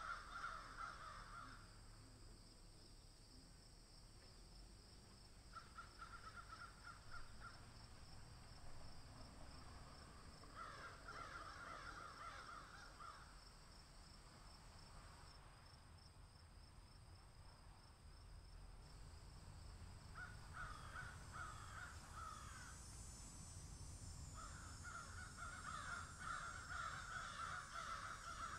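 Faint bird calling: bouts of rapid, repeated calls a second or two long, five times over, with a steady high hum underneath.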